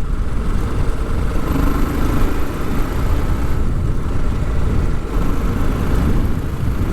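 TVS Apache RR 310 single-cylinder motorcycle running at a steady cruise, with a constant low wind rumble on the rider's microphone.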